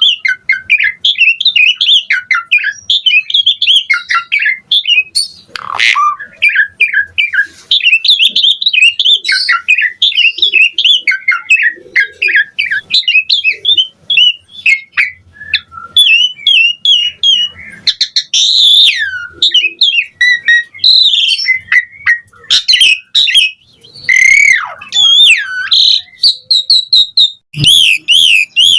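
Asian pied starling (jalak suren) singing a long, varied song of rapid chattering notes mixed with whistles and sweeping glides, almost without pause.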